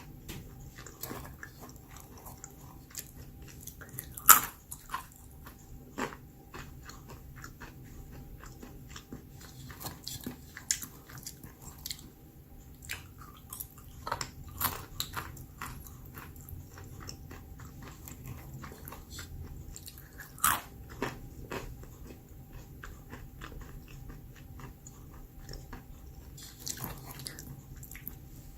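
A person biting and chewing almonds: a run of irregular crisp crunches, with two louder bites, one about four seconds in and one about twenty seconds in.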